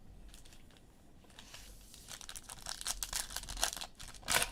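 Crinkling and tearing of a foil trading-card pack wrapper being handled, starting faint and becoming a dense crackle from about a second and a half in, with a louder burst near the end.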